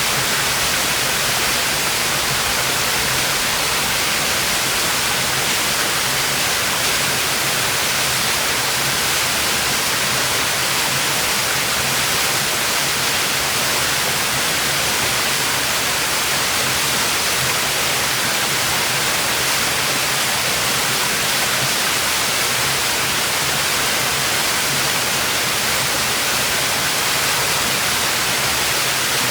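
Waterfall: a steady, unbroken rush of falling water splashing onto rock, strongest in the hiss.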